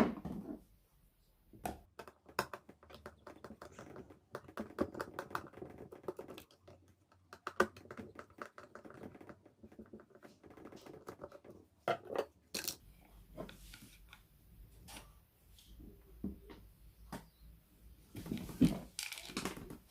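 Irregular small clicks and taps of blender motor parts being handled by hand, with a few louder knocks.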